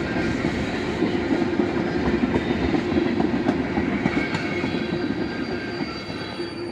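CN freight train of oil tank cars rolling past up close, its wheels clicking and rattling over the track. It begins to fade about five seconds in as the cars draw away.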